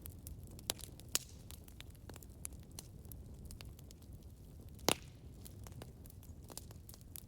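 Campfire crackling: a steady low rumble of burning wood with scattered sharp pops and snaps, the loudest a pop a little before the five-second mark.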